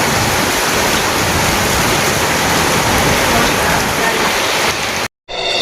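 Torrential rain pouring down, a loud steady rush of falling and running water. It cuts off abruptly about five seconds in, and music begins to fade in.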